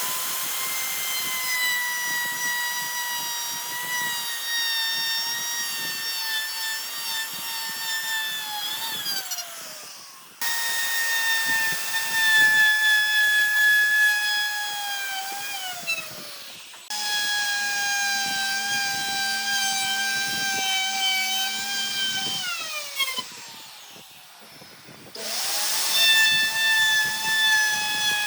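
Electric power tool motor whining at high speed in four runs, its pitch sagging slightly while it works and falling away as it winds down after each release.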